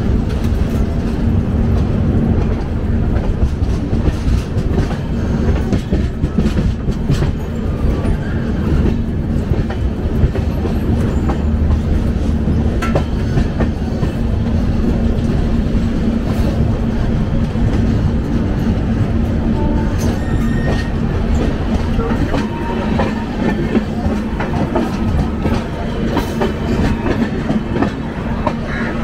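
Indian Railways express coach rolling along the track, heard from its open doorway: a steady rumble of wheels on rail under a constant low drone, with clicks as the wheels pass over rail joints and points.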